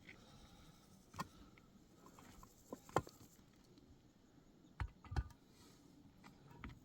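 A few scattered short knocks and clicks against a quiet background, the sharpest about three seconds in and a close pair near five seconds.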